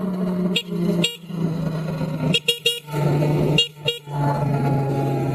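A low-pitched vehicle horn sounding in a string of blasts of different lengths, broken by short gaps, its pitch dropping slightly from blast to blast.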